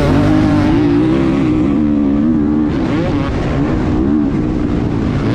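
Motocross dirt bike engines revving on the track, their pitch rising and falling as the riders throttle on and off.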